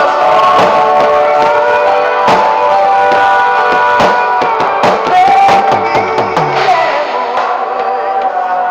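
Music: a band playing a hymn, with a sung melody over drums and guitar. The drum hits stop about seven seconds in and the chords ring on.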